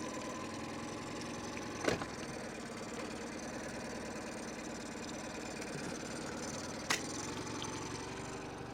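Boat motor idling steadily, with two sharp knocks about two and seven seconds in.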